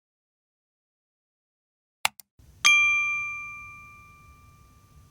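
Two quick clicks, then a single bright bell-like ding, struck once about two and a half seconds in, that rings on and slowly dies away over a faint low hum.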